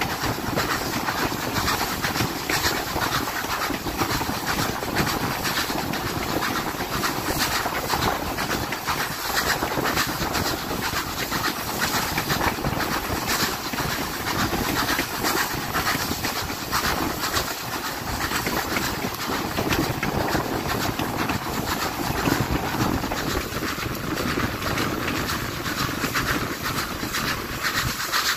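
Steam train running along the track: a steady rumble of wheels on rail, with frequent rattling clicks throughout.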